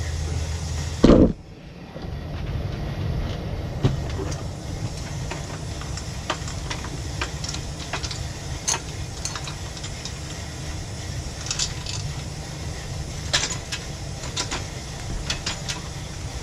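Scattered light metallic clicks and clinks of a Razor electric dirt bike's drive chain being worked off its sprockets by hand, over a steady low rumble, with one loud knock about a second in.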